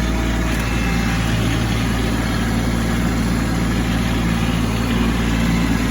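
Kubota B2601 compact tractor's three-cylinder diesel engine running at a steady speed.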